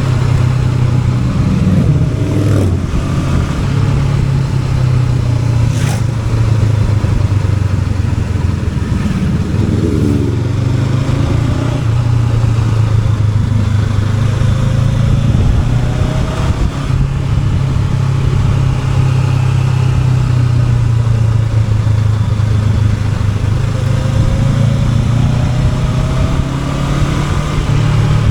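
Honda NX500's parallel-twin engine running steadily under way, rising in pitch as it accelerates about a second in and again about ten seconds in. A few short clicks are heard.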